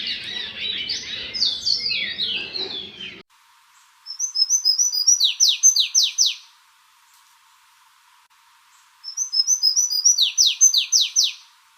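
Songbirds singing: a fast, jumbled song that cuts off abruptly about three seconds in, then another bird's song given twice, each phrase a quick run of short high notes ending in four or five falling whistles.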